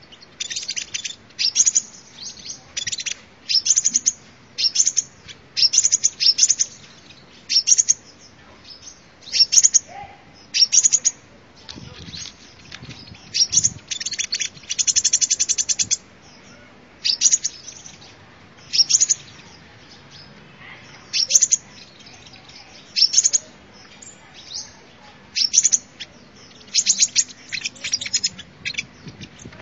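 Sunbird calls: sharp, high chirps repeated about once a second, with a few longer rapid trills, used as a lure call for sunbirds.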